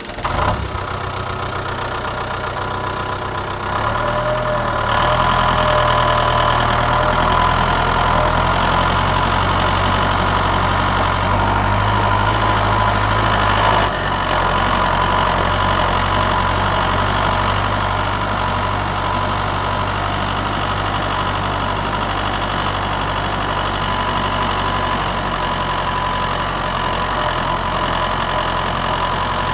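Tractor engine running steadily. Its note steps up and grows louder about four seconds in, then drops back a little at about fourteen seconds.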